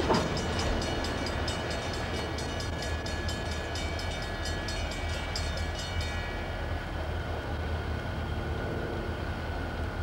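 Freight train's rail cars rolling slowly past and away, steel wheels clicking quickly and regularly over rail joints until about six seconds in, over a steady low rumble.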